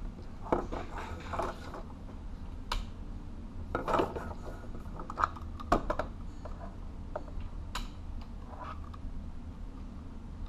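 Scattered clicks, knocks and rattles of a hand-wired test circuit being handled: a plastic light fixture with bulb, a switch box and cable with plug picked up and moved about, over a steady low hum.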